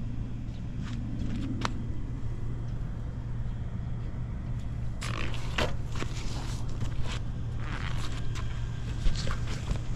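Honda Dax 70 (ST70) single-cylinder four-stroke engine idling steadily, with scattered clicks and rattles over it, about halfway through and again near the end. It runs without abnormal noise, as the seller states.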